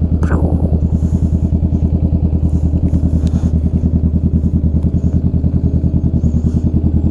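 Honda Rebel 500's parallel-twin engine running steadily at an even, unchanging pitch with a regular pulsing beat. A short falling squeak sounds just after the start.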